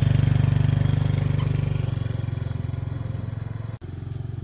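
Small engine idling steadily with an even rapid putter, just after being started; it eases a little about halfway and breaks off for an instant near the end.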